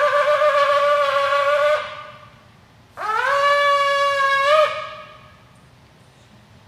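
A shofar (ram's-horn trumpet) blowing two long blasts about a second apart. Each blast scoops up in pitch as it starts, and the second one flicks upward just before it cuts off.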